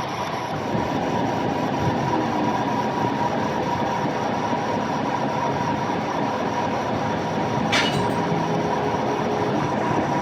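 Steady mechanical workshop noise with a constant whine, broken by a brief sharp screech about eight seconds in.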